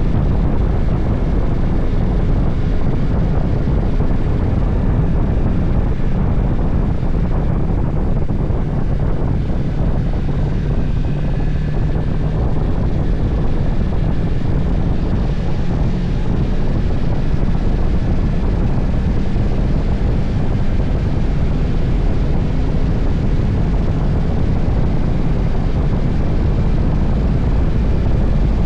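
Motorcycle on the move: a steady engine drone mixed with the rush of air.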